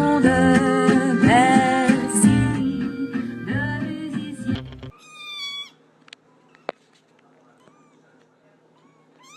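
Pop song with guitar and singing that cuts off about five seconds in. Then a cat meows once, there is a single sharp click, and a second meow starts near the end.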